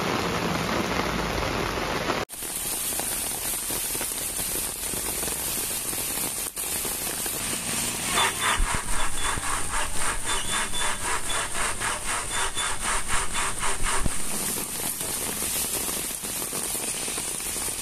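Heavy rain hissing steadily. In the middle, for about six seconds, a rhythmic rasping of about four strokes a second sounds over it.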